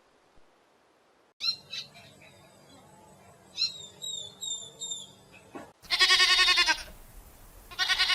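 Animal calls: a few short, high, falling chirps, then two loud wavering calls about two seconds apart.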